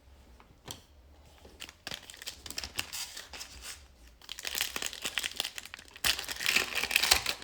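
Plastic trading-card pack wrapper crinkling and being torn open by hand, in quiet scattered rustles at first and then louder, denser crinkling from about two seconds in.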